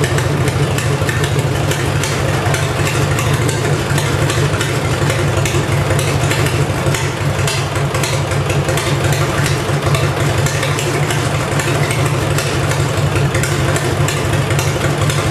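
Kohler KT17 twin-cylinder air-cooled engine of a Simplicity 7117 garden tractor running steadily, a smooth even run shortly after a start following a week of sitting.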